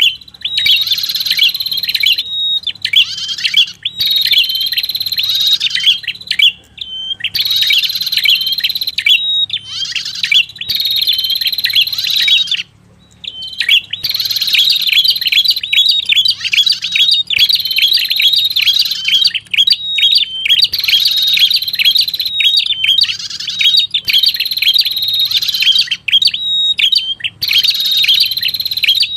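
Recorded lure call of the red-headed prenjak: runs of rapid, high chirps and trills, repeated over and over with short pauses between phrases and one longer break about halfway through.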